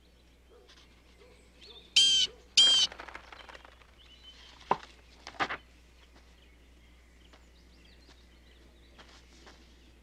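A bird calling: two loud, short, harsh calls in quick succession about two seconds in, then two shorter, sharper calls about five seconds in, over a quiet outdoor background.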